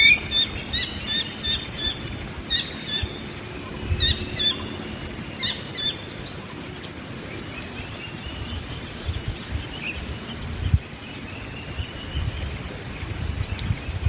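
Wild birds chirping: a quick run of short chirps in the first couple of seconds, a few more calls about four and five seconds in, and a high note repeating about once a second throughout, with occasional low thumps.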